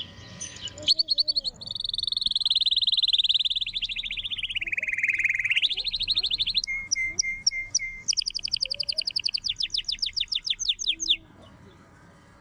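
Domestic canary singing one long song of rapid trills. Midway one trill slides down in pitch, then come a few slower repeated notes and a fast trill that stops abruptly about eleven seconds in.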